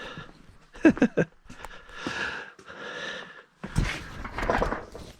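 A man breathing out heavily several times, with short wordless vocal sounds about a second in.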